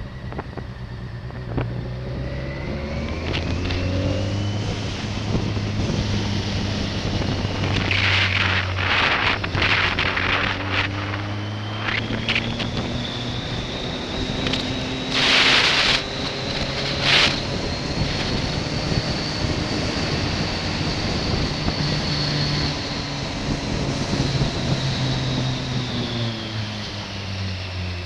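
Motorcycle engine running under way, climbing in pitch through the gears early on and dropping away near the end, with a thin high whine over it and a few short gusts of wind over the microphone.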